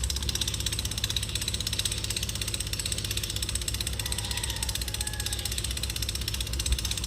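Small DC motor of a homemade can-bladed model ceiling fan spinning, with a fast, steady rattling clatter.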